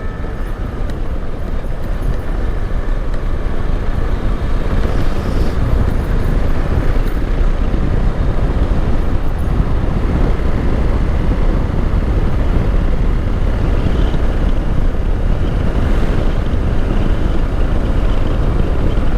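Hero Xpulse 200 single-cylinder motorcycle being ridden: engine running under steady road and wind noise, heavy in the low end, picking up a little in the first few seconds.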